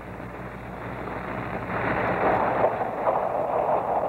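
Rail yard train noise, a rushing sound growing steadily louder as a locomotive or rolling freight cars approach, heard on an old film soundtrack that cuts off the highs.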